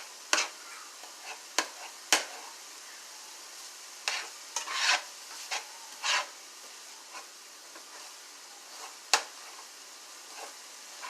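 Ground turkey sizzling in a frying pan while a spoon stirs and chops at it, scraping and knocking against the pan: a steady sizzle under irregular scrapes and knocks, the sharpest about two seconds in and about nine seconds in.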